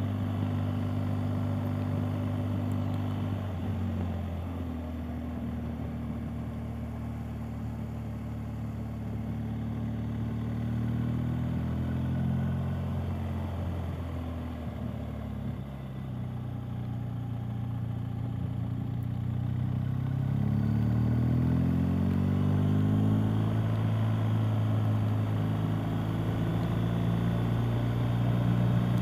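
BMW R 1250 GS Adventure's boxer-twin engine running steadily under way. Its pitch drops around four seconds in and again near the middle, then climbs about twenty seconds in as the bike speeds up and gets louder.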